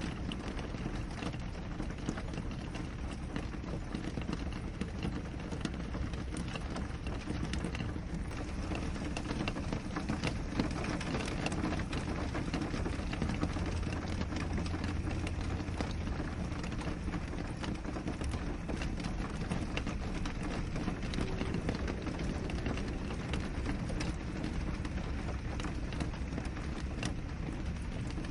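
Rain falling on a window: a steady hiss of rainfall dotted with many small drop ticks, with a brief low rumble about halfway through.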